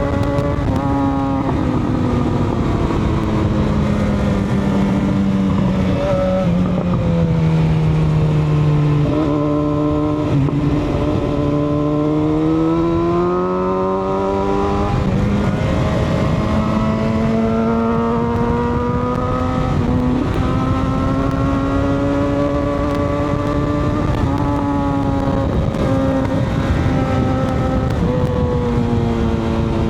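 Motorcycle engine running under way. Its pitch sinks slowly over the first nine seconds, then climbs, with short breaks and pitch steps at gear changes, over a steady rush of wind and road noise.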